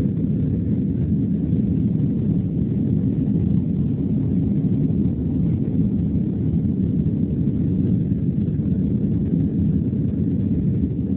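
Boeing 767-300 jet engines at takeoff power, heard from inside the passenger cabin as a steady, loud low rumble.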